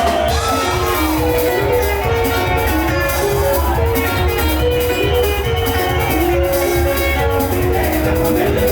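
Live band music: quick plucked guitar notes over a steady bass and drums.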